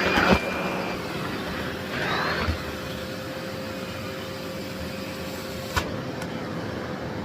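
Miele Blizzard CX1 Cat & Dog PowerLine cylinder vacuum cleaner running steadily with a constant whine. There is a short sharp knock just after the start and another about six seconds in.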